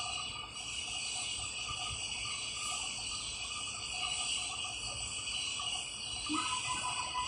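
Insects chirping in a steady chorus, with a brief brighter call about six seconds in.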